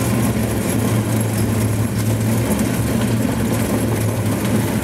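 Starter car's engine running at a steady hum as the car drives, with a constant rushing noise over it.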